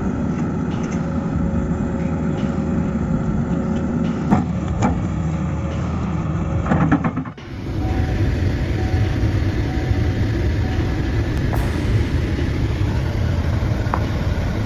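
Heavy machinery engine running steadily under load, with a few short knocks in the first half. About seven seconds in it cuts abruptly to another engine recording.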